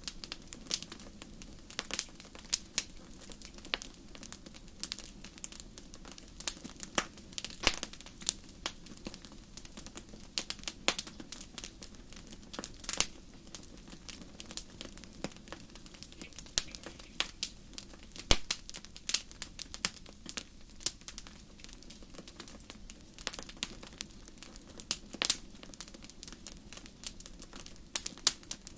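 Wood campfire crackling: irregular sharp pops and snaps over a steady low rush of the burning fire.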